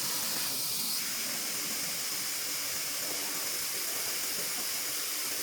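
Large-format laser marking machine at work on an LED mirror's coating, a steady high hiss that shifts slightly about a second in.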